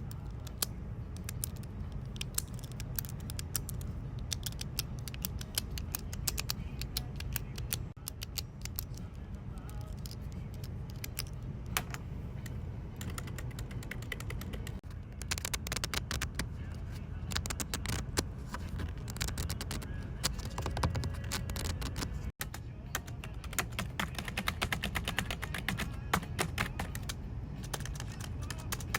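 Computer keyboard being typed on in quick runs of key clicks, denser at times, over a steady low hum.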